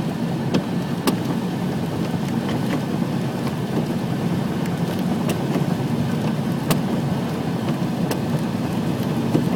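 Steady road-vehicle noise, engine and tyres running evenly, with a few faint clicks.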